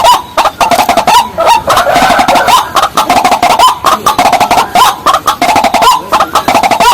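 Loud, rapid calls of rails, the waterhen and watercock family, repeated several times a second in a continuous string of short clucking notes.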